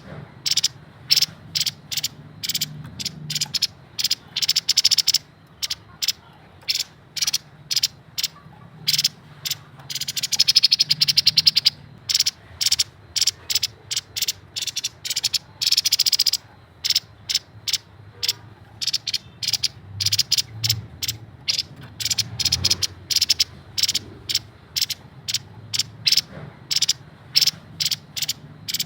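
Grey-headed babbler singing its fast, chattering song: a long series of short, sharp, high notes with quicker rattling trills about ten seconds in and again near sixteen seconds, over a faint low hum.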